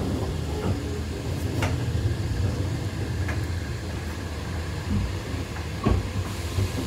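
Steady low rumble inside a moving conventional green-liveried Chinese passenger train carriage (a 'green-skin' train), with a few brief sharp knocks.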